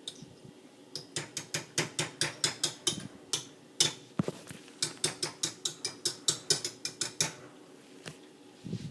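A utensil beating muffin batter in a bowl, clicking against the bowl's side about four to five times a second, with a short pause near the middle.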